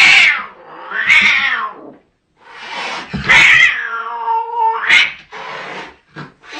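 A cat yowling: a series of loud, drawn-out caterwauling calls, four in a row with short gaps, the third one longer than the rest.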